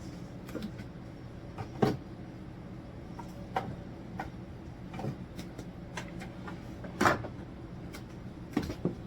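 Scattered knocks and clunks of cupboard doors and kitchen items being handled, about seven over nine seconds with the loudest near the seven-second mark, over a steady low hum.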